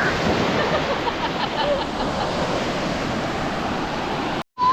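Ocean surf washing onto a beach, a steady rush of water with wind on the microphone; it cuts off abruptly near the end.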